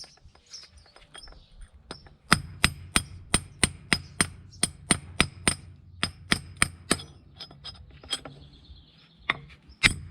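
Hammer striking the old worn wheel bearing, used as a driver, to seat a new front wheel bearing in the hub of a Mercedes CLK W208. There is a run of sharp metallic strikes at about three a second for around five seconds, then a few spaced strikes near the end.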